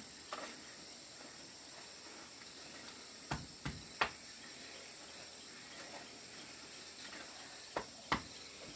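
Five sharp knocks over a steady hiss: three close together about three to four seconds in, and two more near the end.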